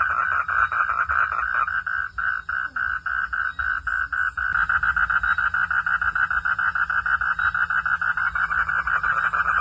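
Frogs calling in a pulsed chorus, rapid repeated notes at about five a second. The chorus thins to spaced pulses about two seconds in and fills out again around the middle, over a faint low hum.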